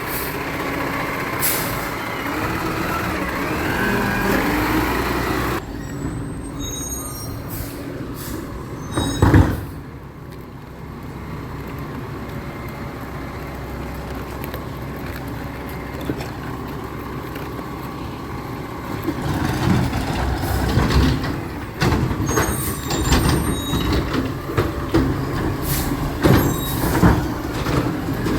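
Recycling truck's diesel engine running, with a loud air-brake release about nine seconds in. Sharp knocks and clattering come again and again over the engine in the last third.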